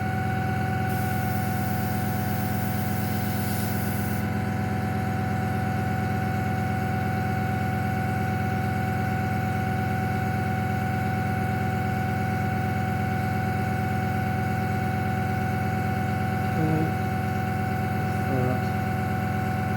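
Airbrush compressor running with a steady hum. About a second in, air hisses through the airbrush for about three seconds as paint is sprayed, then stops.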